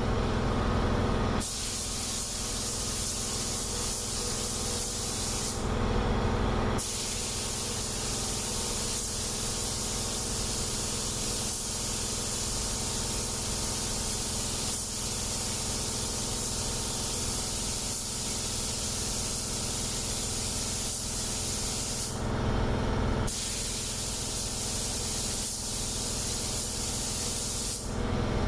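Compressed-air paint spray gun hissing steadily while spraying paint, stopping for a second or so at the start and three more times.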